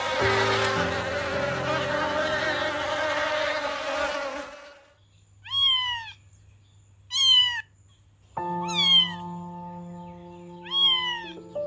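A loud, dense buzzing noise for about five seconds stops. Then an animal gives short, high calls that fall in pitch, one about every two seconds. Soft sustained music tones come in during the second half.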